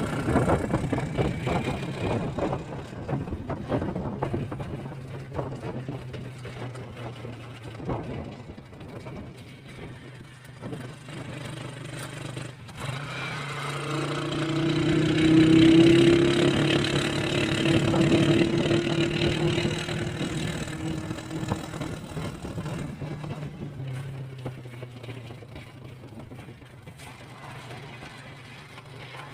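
Vehicle engine running on the move, a steady hum. It swells to its loudest about halfway through, with a strong steady engine tone, then fades again.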